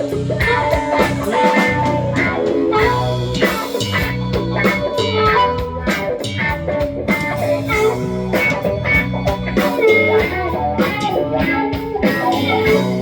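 Blues-rock band playing an instrumental passage without vocals: guitar over bass and a drum kit keeping a steady beat.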